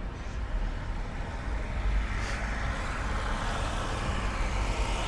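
A motor vehicle's engine running close by, a steady low rumble under an even hiss of outdoor noise that swells slightly in the middle.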